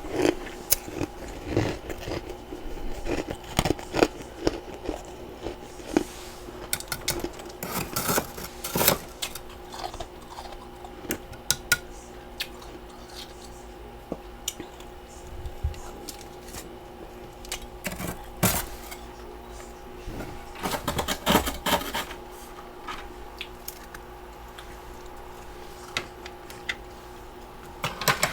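Chunks of humidifier freezer frost and ice being bitten and chewed, in irregular clusters of sharp crunches with short pauses between, over a faint steady hum.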